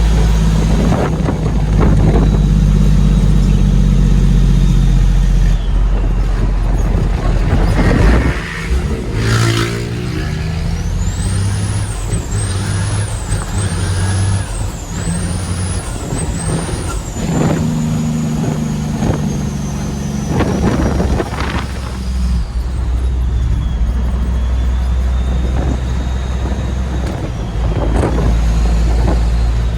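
Heavy diesel dump truck engine running under load, its pitch stepping up and down several times as gears change, with a few short air hisses. In the middle a high whistle rises and falls about five times.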